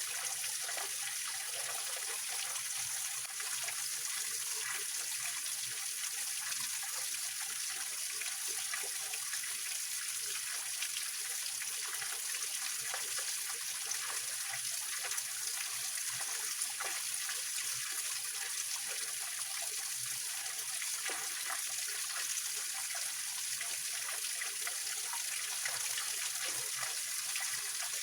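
Small mountain stream and waterfall splashing and trickling over rocks: a steady, even rush with many small splashes.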